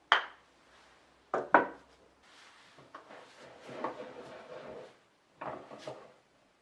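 Japanese hand plane (kanna) being worked and adjusted on the bench: sharp wooden knocks, one at the start, a quick pair about a second and a half in and two more near the end, with a longer rubbing scrape of wood in between.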